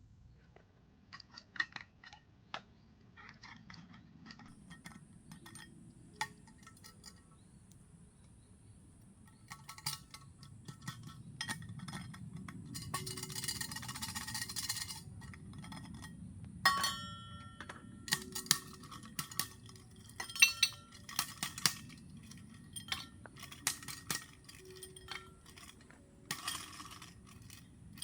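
Dishes and glassware clinking and clattering as they are handled: a scattered run of short, light clinks and knocks, with a couple of brief rustling stretches.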